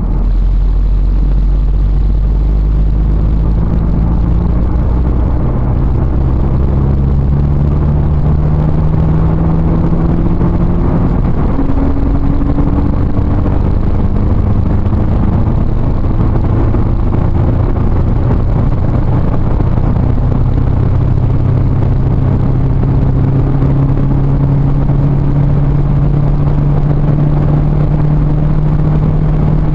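Audi S3's turbocharged 2.0 TFSI four-cylinder engine pulling hard at high speed, its note climbing slowly and steadily, over a loud steady rush of road and wind noise.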